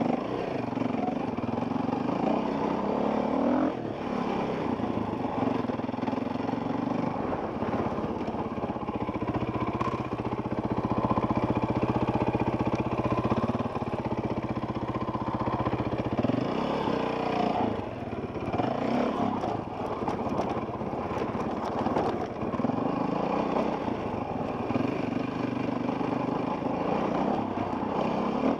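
Enduro dirt bike engine under way on a rocky trail, the revs rising and falling again and again with throttle and gear changes.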